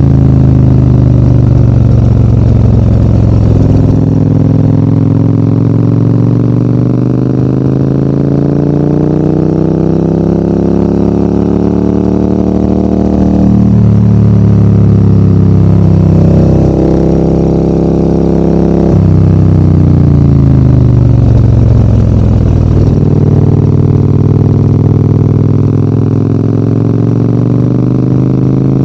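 Large adventure motorcycle's engine under way on a climb, its pitch rising as it accelerates and then changing abruptly at gear changes around the middle. After that it falls away steadily as the bike slows, then holds at a steady pitch near the end.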